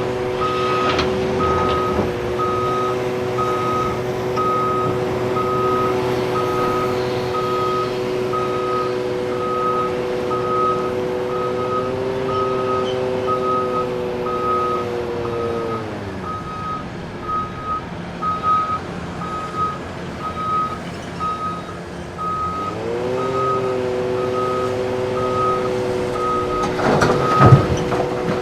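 Heavy-equipment backup alarm beeping steadily, a little more than once a second, over a big diesel engine running. The engine winds down about halfway through and revs back up several seconds later. Near the end there is a short, loud clatter of impacts.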